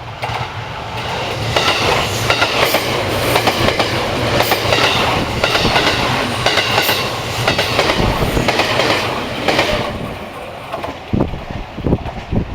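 Train passing close by, its wheels clacking steadily over the rail joints. The sound builds about a second and a half in and tails off near the end with a few last separate thumps.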